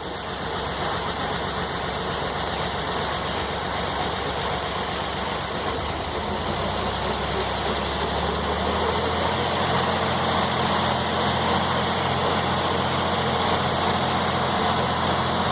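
Engine driving a circular sawmill with a 49-inch blade spinning free, throttled up from idle: the running sound grows gradually louder and settles into a steady hum from about halfway through.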